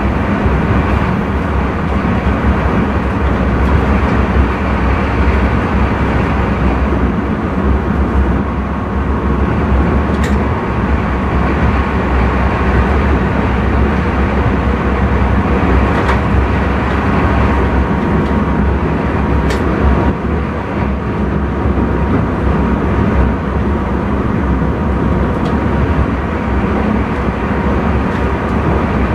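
Steady rumble of an intercity train running along the track, heard inside the driver's cab, with a few faint clicks.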